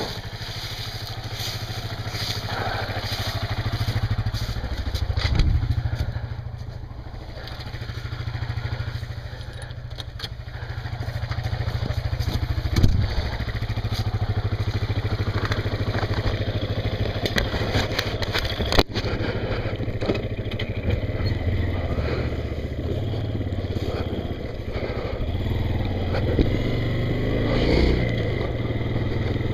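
Honda CRF230L's single-cylinder four-stroke engine running at low revs, at idle while the rider gets ready and then pulling the bike slowly along a driveway. Rustling and knocks from gloves and handling of the helmet camera sound over it.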